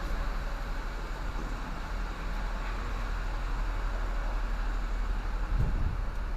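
H-Thermo truck refrigeration unit running: a steady mechanical drone with a low hum. Wind buffets the microphone with a few low thumps near the end.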